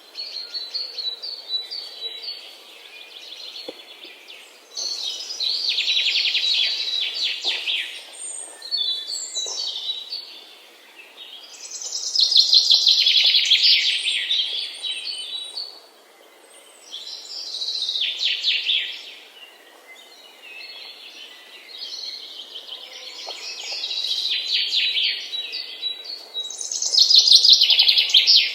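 Birds chirping in repeated bursts of rapid, chattering trills every few seconds, with quieter chirps in between. The loudest bursts come around the middle and near the end.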